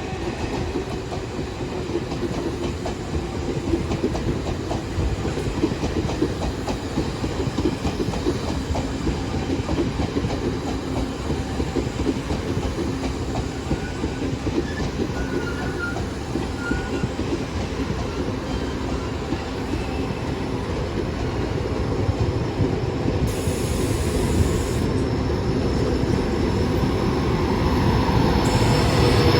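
Train running on the rails: a steady rush with a dense, fast clatter of wheels over the track, growing louder near the end.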